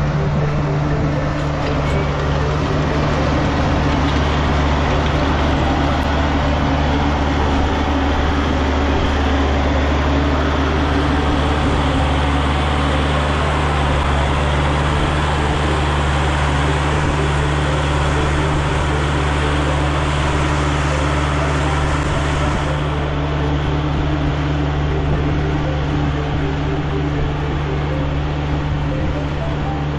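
A vehicle engine running steadily at constant speed: a continuous drone with a low, even hum.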